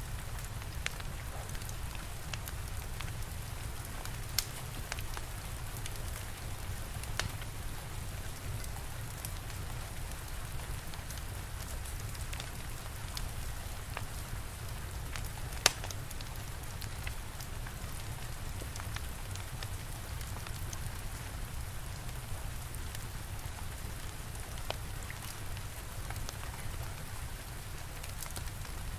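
Steady rainfall with a low rumble underneath, and a wood fire crackling, with scattered sharp pops every few seconds; the loudest pop comes a little past halfway.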